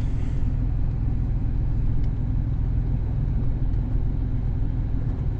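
Car running, heard from inside the cabin: a steady low rumble of engine and drive noise.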